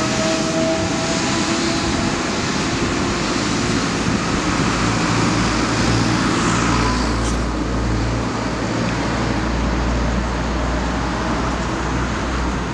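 City street traffic noise: vehicles passing, with a heavier low engine rumble coming in about halfway through and running on.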